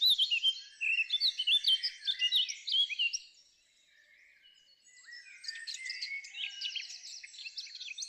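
Songbirds singing over one another in a chorus of quick chirps and trills. The singing fades almost away a little past the middle for about a second and a half, then comes back softer.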